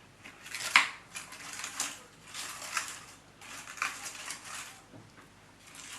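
Handmade flowers rustling and crinkling as they are handled and pushed into a bouquet, in several uneven bursts with small clicks.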